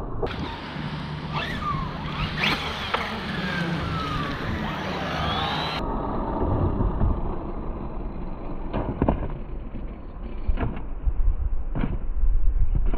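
Electric RC trucks running on wet concrete, their motors whining up and down in pitch as they speed up and slow down, over a low rumble. A few sharp knocks come in the second half.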